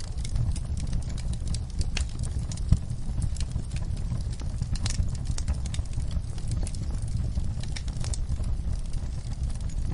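Wood fire crackling in a fireplace: irregular sharp pops and snaps over a steady low rumble, with one louder pop a little under three seconds in.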